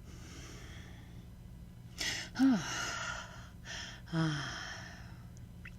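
A woman breathing audibly: a sharp intake of breath about two seconds in, followed by a sigh that falls in pitch, then another breath with a short voiced exhale about four seconds in. A steady low hum runs underneath.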